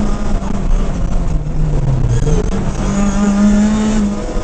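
Ford rally car's engine heard from inside the cockpit, running hard at high revs. About a second and a half in, the revs drop for roughly a second, then climb back and hold steady.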